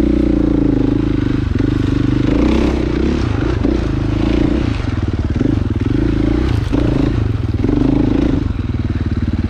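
Dirt bike engine running as it is ridden along a trail, revs rising and falling repeatedly as the throttle is rolled on and off, with several brief dips in between.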